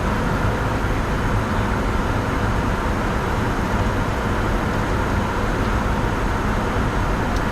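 Steady cockpit noise of a Bombardier Challenger 605 business jet in the climb: a constant rush of airflow and engine noise.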